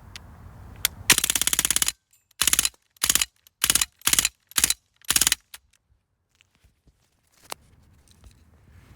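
Umarex Strike Force CO2 BB gun firing rapid bursts: one long burst of about a second, then six short bursts in quick succession.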